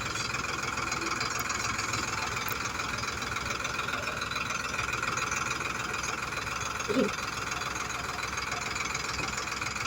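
Tractor engine running steadily at an even speed, without revving up or down.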